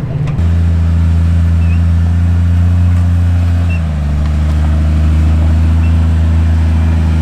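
Off-road vehicle's engine running steadily at low revs. Its note steps up in level about half a second in and shifts slightly lower about four seconds in.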